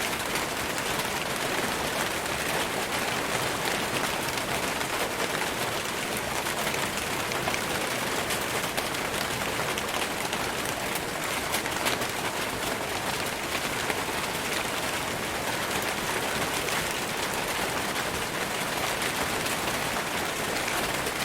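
Steady rain falling on forest leaves: a dense, even hiss of countless small drop impacts.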